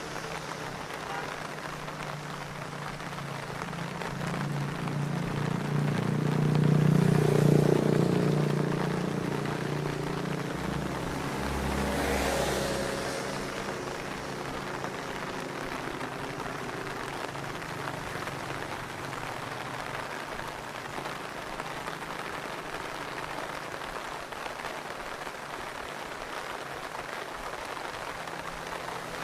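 Steady rain falling, with a motor vehicle passing on the wet road: its engine hum swells to a peak about seven seconds in and fades, followed by a shorter swell of hiss about twelve seconds in.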